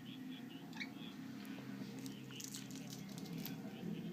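Bengal cat at play: one short high falling chirp about a second in, then faint scattered clicks and rustles, over a steady low hum.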